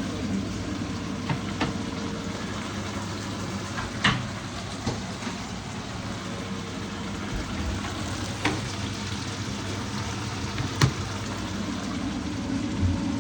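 Fish pan-frying in hot oil, a steady sizzle, with a few sharp clinks of utensils or dishes.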